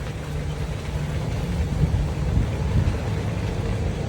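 Car road noise heard from inside the cabin while driving slowly: a steady low rumble of tyres and engine.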